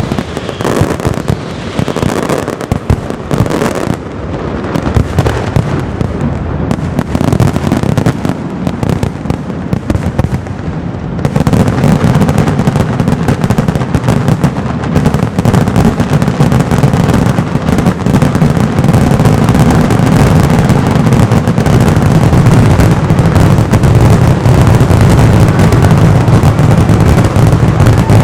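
Castillo aerial fireworks bursting in rapid, overlapping bangs and crackles; about eleven seconds in they thicken into a louder, continuous barrage of explosions.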